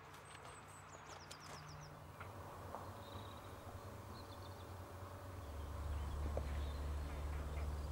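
Small birds chirping in short, quick falling notes, over a steady low hum that grows louder about five and a half seconds in.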